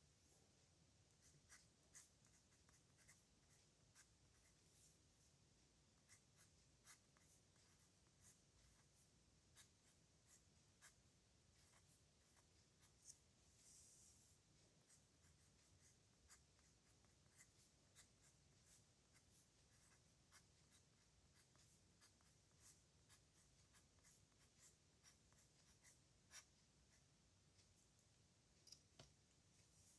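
A pen writing on paper, very faint: irregular short ticks and scratches of the nib as strokes are made, with a longer scratchy stroke about halfway through.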